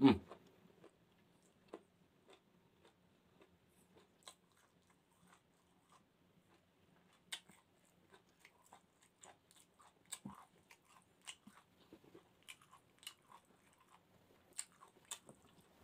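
Close-miked chewing of grilled chicken gizzards: scattered short, wet mouth clicks and smacks, with a louder one at the very start, coming more often in the second half.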